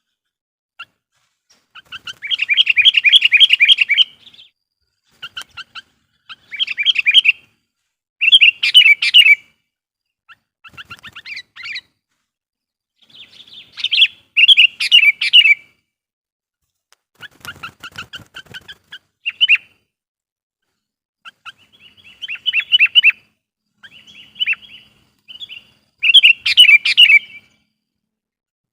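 Sooty-headed bulbul (kutilang) singing loud, vigorous song phrases. The phrases come in repeated bursts of quick chattering notes, each a second or two long, with short pauses between them.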